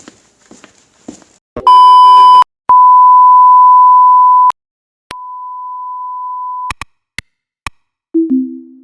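A series of short sound effects: a few soft taps, then a steady beep tone of the censor-bleep kind sounding three times, first very loud and harsh, then long and clean for about two seconds, then quieter. A few sharp clicks and a short low two-note sound follow near the end.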